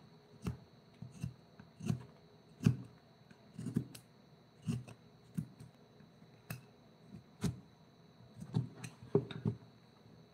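Wood-carving hand tools working on wood: a series of irregular short knocks and cutting clicks, roughly one or two a second.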